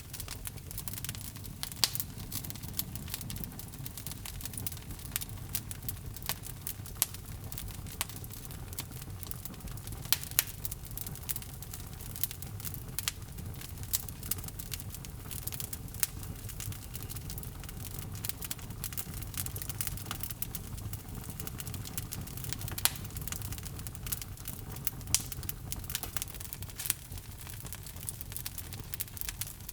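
Wood logs burning in a fireplace: a steady low rumble of the fire with irregular sharp crackles and pops scattered throughout.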